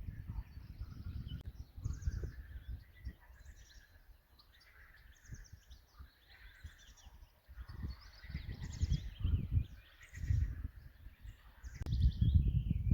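Several songbirds singing in overlapping phrases of rapid repeated notes and whistles, over a gusty low rumble that swells loudest near the end.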